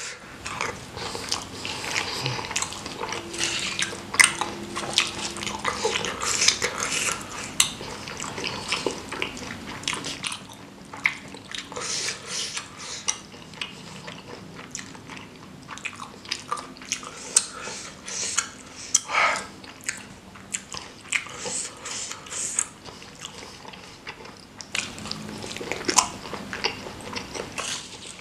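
Close-miked chewing and wet mouth sounds of someone eating spicy seblak, with small clicks and crackles, busy in the first half and sparser after. A wooden spoon now and then knocks and scrapes against the stone mortar bowl.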